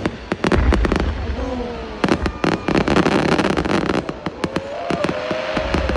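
Fireworks going off in quick succession: sharp bangs, a low boom about a second in, and a dense spell of crackling from about two to four seconds in.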